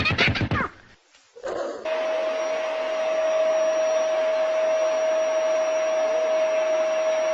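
An electric appliance motor, vacuum-cleaner-like, runs with a steady rushing noise and a steady high whine, starting about two seconds in. Before it, a short wavering pitched cry is heard at the very start.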